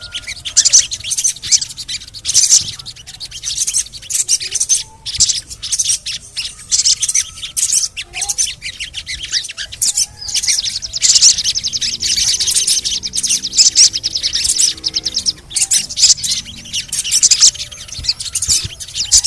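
Sogon (crimson sunbird) singing: a continuous, rapid, high-pitched chattering twitter.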